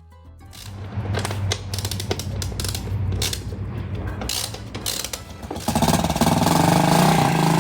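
Mechanical clattering and ratcheting, then about five and a half seconds in a motorcycle engine starts and runs with a fast, even beat.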